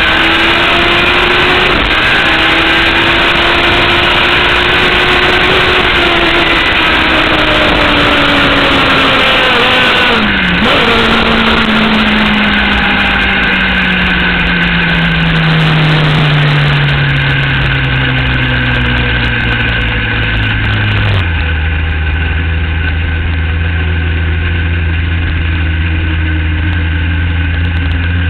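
Drag-racing superbike engine running hard over heavy rushing noise, its pitch climbing slowly for about ten seconds. The pitch then dips sharply and slides steadily down as the bike slows. It changes abruptly to a steady low engine hum, like idling, for the last several seconds.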